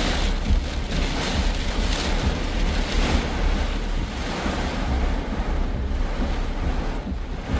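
Strong wind and heavy rain of a severe thunderstorm: a steady rushing noise, with gusts buffeting the microphone in low rumbles.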